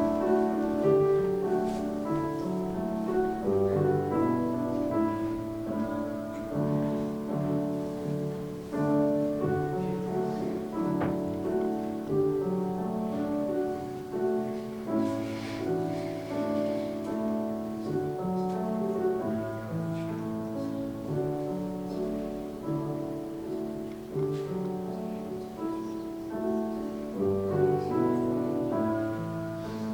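Soft instrumental music led by piano, slow held chords changing about once a second.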